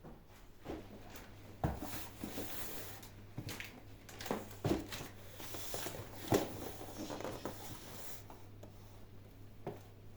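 Irregular knocks, clicks and rustling of objects being handled and set down, over a steady low hum.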